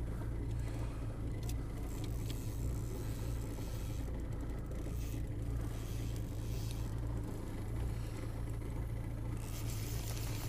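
Boat motor running steadily with a low hum, with a rushing hiss of water growing louder near the end.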